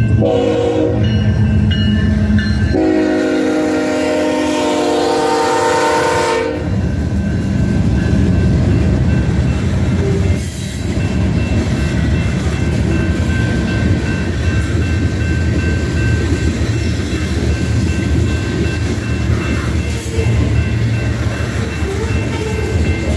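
A BNSF freight train's locomotive horn sounds a short blast and then a long one, about three seconds long. The train then passes close by: a steady heavy rumble of locomotives and freight cars rolling over the rails.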